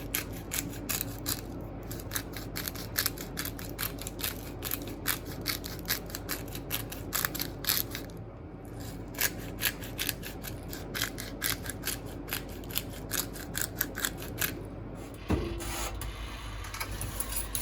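Hand pepper grinder being twisted over the vegetables: a run of crisp, uneven grinding clicks, a few a second. Near the end a steady low hum starts suddenly.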